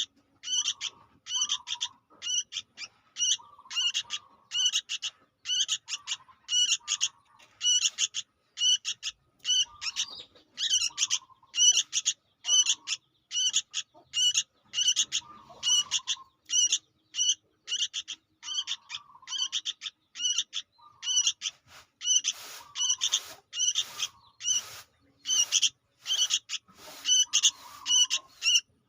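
Young sooty-headed bulbul (kutilang) calling incessantly: a rapid, unbroken run of short, high chirps, two or three a second.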